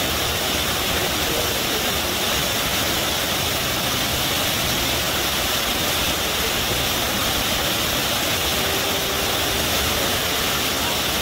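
River water rushing and gushing in a steady, unbroken flow.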